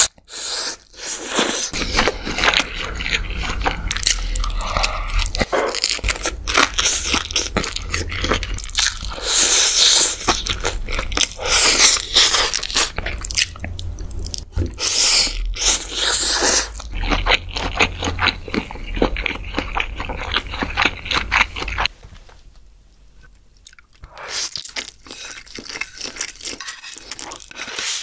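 Close-miked eating sounds: a person chewing and biting through Indomie goreng stir-fried noodles, sausage and fried chicken, with dense wet clicks and crunching. About 22 seconds in the sound drops quieter for a moment, then chewing clicks start again.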